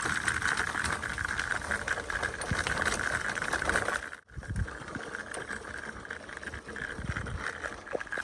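Bicycle ridden along a rough forest path: steady tyre and riding noise with many small clicks and rattles. The sound drops out briefly about four seconds in, then carries on a little quieter.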